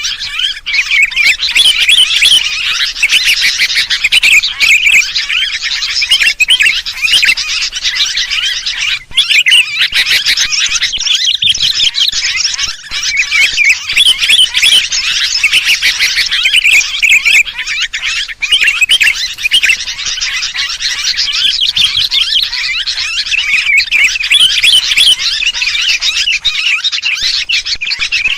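Sooty-headed bulbuls (kutilang) chattering noisily, a dense, unbroken flurry of short chirps and calls. This is a bird-lure recording of rowdy bulbuls, played to draw other birds in.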